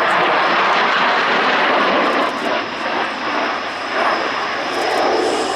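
Loud jet noise from a MiG-29 fighter's twin Klimov RD-33 turbofan engines as it flies overhead, a dense rushing roar that wavers and eases slightly after about two seconds.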